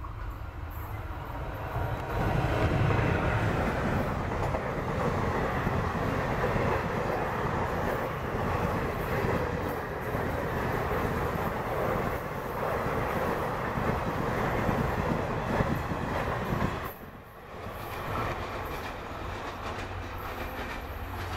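Express train hauled by a WAP-1 electric locomotive passing at speed: the clickety-clack of its coaches' wheels over the rail joints and a steady rumble, louder from about two seconds in as it reaches the trackside. Near the end the sound drops suddenly and comes back quieter as the train moves away.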